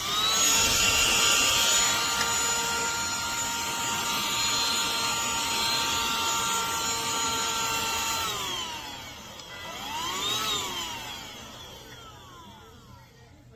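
Bissell AeroSlim cordless handheld vacuum switched on: its motor whines up to speed and runs steady, then winds down after about eight seconds. It is briefly switched on again about ten seconds in and winds down once more.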